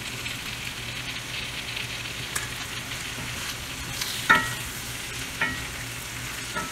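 Fried rice with beef and kimchi sizzling in a hot cast-iron skillet as kimchi juice is poured in and a wooden spatula stirs it, a steady hiss of frying. A couple of sharper scrapes of the spatula against the pan stand out, about four and five and a half seconds in.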